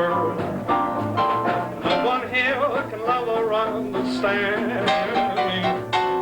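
Small jazz band playing an instrumental passage: trumpet and trombone over banjo, piano, string bass and drums.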